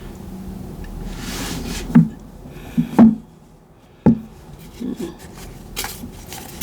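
Tarot cards being handled: a soft rustle of cards rubbing together, then about half a dozen sharp taps as cards are laid down or tapped on a table, the loudest about three seconds in.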